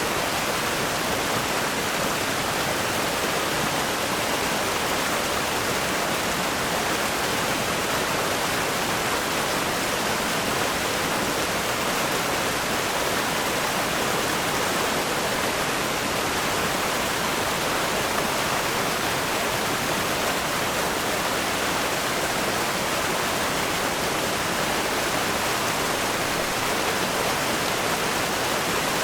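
River rapids rushing over rocks: a steady, dense hiss of churning water with no let-up.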